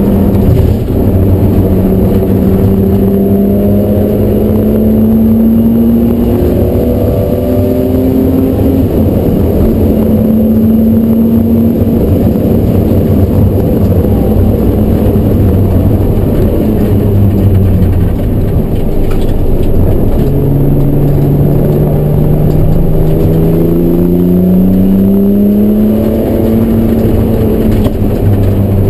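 BMW E36 M3's straight-six engine under hard acceleration, heard from inside the stripped, caged cabin: the engine note climbs in pitch and drops back at gear changes, over heavy road and tyre noise.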